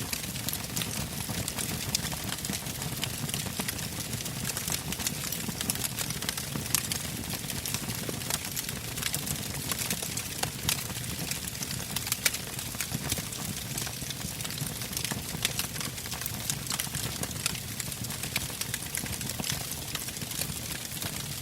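Wood campfire burning: a steady low rush of flame with frequent sharp crackles and pops from the burning logs.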